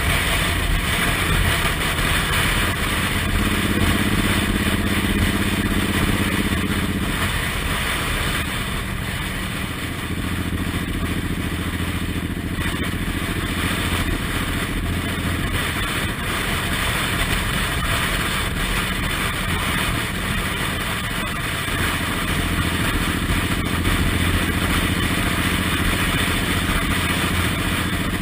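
Suzuki Intruder M1800R's V-twin engine running under way, over a steady rushing noise. The engine note changes a few times, with a stronger band a few seconds in that drops away about a quarter of the way through and comes back near the end.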